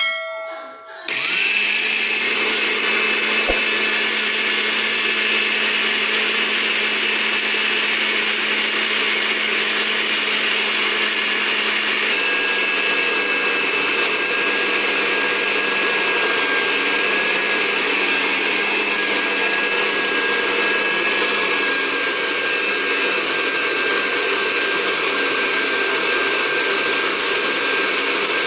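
Electric blender running steadily while grinding bird feed. Its motor starts about a second in with a steady whine, and the tone shifts slightly about twelve seconds in.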